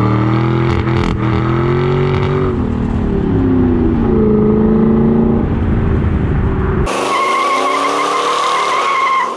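A car engine revving, its pitch rising and falling. About seven seconds in it cuts abruptly to tyres squealing.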